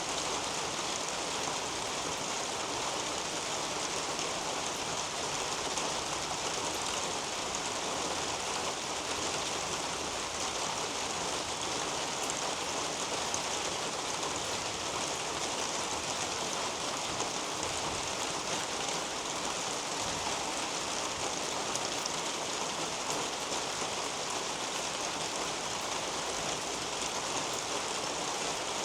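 Steady rain falling on and through a leafy garden canopy: an even, continuous hiss of rainfall with faint scattered drop ticks.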